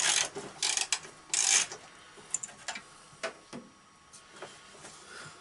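Wrench work on a riding mower: three short bursts of rapid ratcheting clicks in the first two seconds, then scattered light clicks and knocks as parts are handled.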